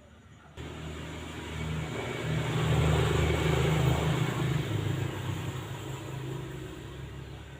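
A motor vehicle passing by: its engine and road noise start abruptly, swell to their loudest a few seconds in, then fade away.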